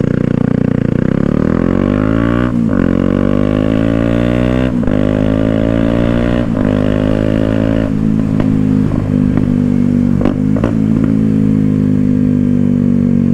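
Kawasaki Ninja 125's single-cylinder engine accelerating through the gears: the revs climb, drop sharply at each of three upshifts and climb again, then settle to a steady cruise.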